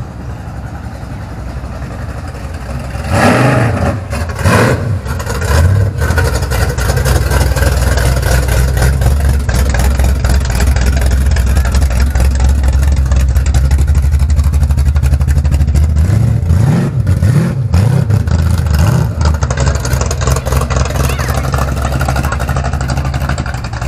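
Street-rod pickup's engine revving sharply a few times, then running with a deep, steady rumble as it rolls slowly past close by, with more quick revs later on.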